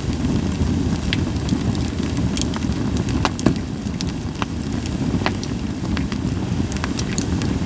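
Wood fire of Japanese white pine crackling, with scattered sharp pops over a steady low rumble; one louder pop about three and a half seconds in.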